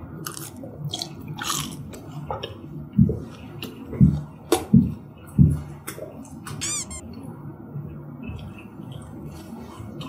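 Close-miked chewing of a piece of crispy guobaorou (fried sweet-and-sour pork), with a few loud bites between about three and five and a half seconds in, and a brief wavering squeak about two-thirds of the way through.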